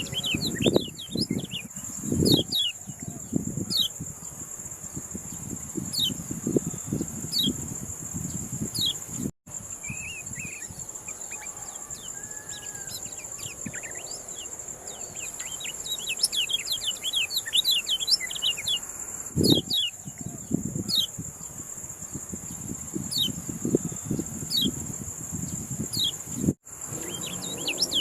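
Kecial kuning songbird chirping, a rapid run of short, sharp notes that sweep downward, quieter for a few seconds in the middle, over a steady high-pitched insect drone. A couple of low thuds sound, and the sound drops out briefly twice.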